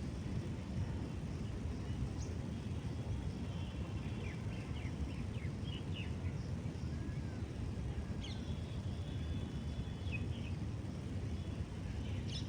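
Steady low outdoor rumble with small birds calling over it: a quick run of short chirps around the middle and a longer, steadier call a few seconds later.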